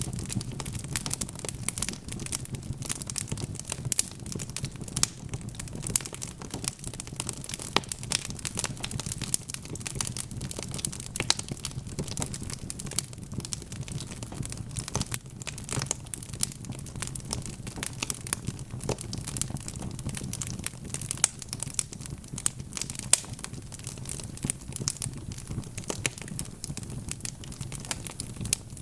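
Logs burning in a fireplace, crackling: a dense, irregular stream of small sharp pops and snaps with a few louder ones, over a steady low rumble of the flames.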